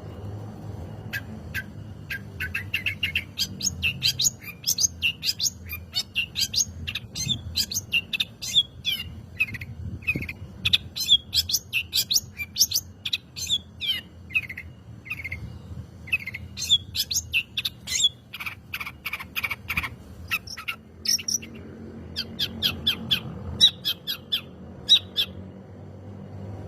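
Long-tailed shrike (cendet) singing hard: a fast stream of sharp chirps and chattering phrases with a short pause about twenty seconds in, over a faint low background hum.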